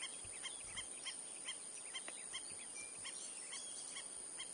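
Outdoor background with short chirping calls repeating a few times a second, bird calls by their pattern, over a steady hiss.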